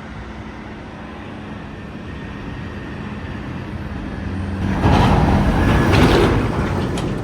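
Bus engine running, heard from on board: a steady hum that swells much louder about five seconds in, then eases off near the end.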